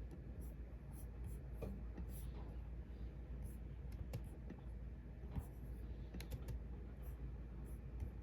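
Irregular, scattered clicks and taps of a computer keyboard and mouse, over a low steady hum.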